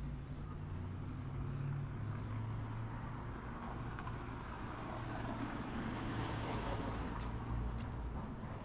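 A motor vehicle's engine running with a steady low hum, while a wash of passing traffic noise swells and fades around the middle. Two short sharp clicks come near the end.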